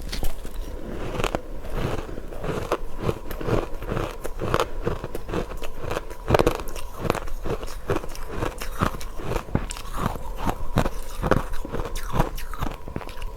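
Ice dusted with matcha powder being bitten and chewed close to the microphone: a run of quick, irregular crunches.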